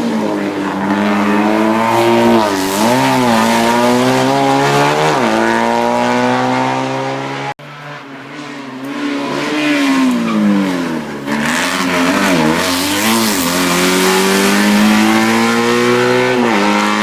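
Hill-climb race car engine at high revs, its pitch climbing through the gears and dropping at each shift, with quick rev blips as it slows for corners. The sound cuts out abruptly for a moment about seven and a half seconds in.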